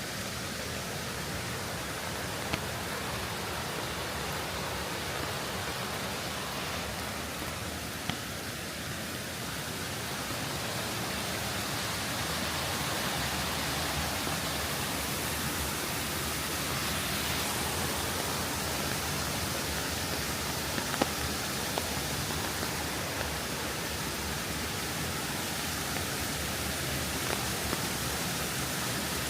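Steady rushing of water, an even hiss, with a few sharp ticks now and then.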